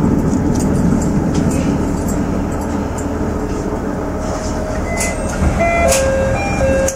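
Aizu Railway AT-650 diesel railcar running, heard from on board: a steady low rumble of engine and wheels on the rails, with a few sharp clicks and some short high steady tones near the end.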